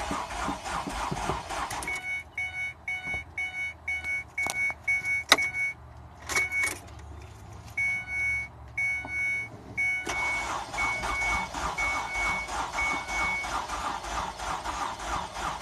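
2006 Ford Escape's engine being cranked by the starter in a steady rhythmic churn without firing: a crank-but-no-start. The cranking stops for several seconds about two seconds in, leaving a repeated high electronic beep from the car and a few sharp clicks. Cranking resumes about ten seconds in, with the beeping carrying on a little longer.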